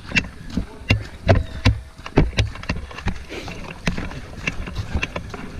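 Footsteps of a person walking or jogging over ground, a steady run of thuds about two to three a second.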